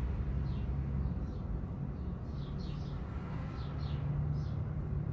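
Birds chirping: a string of short, falling notes, some in quick pairs, over a steady low hum.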